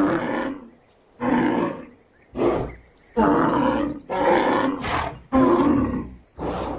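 Lion roaring: a series of about seven deep, grunting roars, each under a second long.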